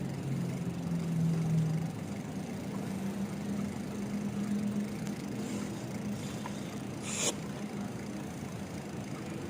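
A motor vehicle's engine running with a steady low hum that rises a little in pitch after a couple of seconds. A brief rattle comes about seven seconds in.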